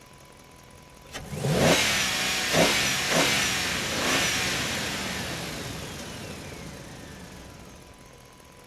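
A click, then a car engine sound revving up in four quick rises, dying away slowly over the next few seconds.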